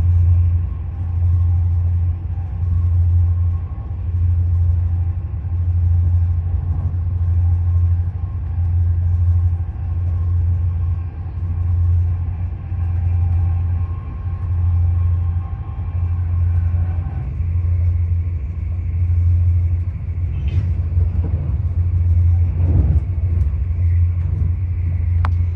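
Swiss passenger train running, heard from inside the carriage: a heavy low rumble that swells and fades about every one and a half seconds, with faint steady tones above it. It cuts off suddenly at the end.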